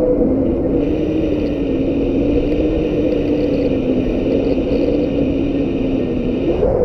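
Strong wind rumbling and buffeting, with a steady droning tone underneath that dips at the start and rises again near the end.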